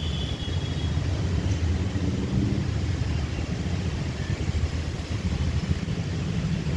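Low, steady rumble of an express train running past on the track. A faint high wheel squeal fades out about a second in.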